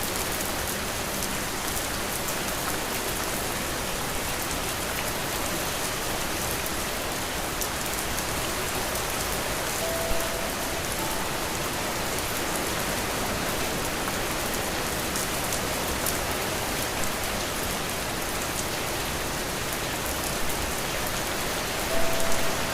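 Steady rain falling, an even hiss of drops on surfaces, with a few brief louder moments near the end.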